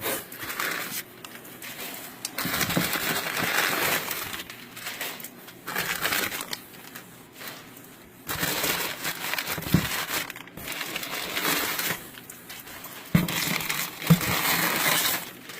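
Crumpled packing paper rustling and crinkling as it is pulled out of a shipping box, in several bursts with short pauses between.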